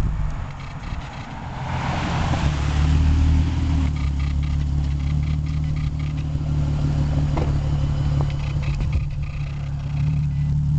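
V6 engine running through a Pypes mid-pipe exhaust, a steady low exhaust note that gets louder about two seconds in and again near the end.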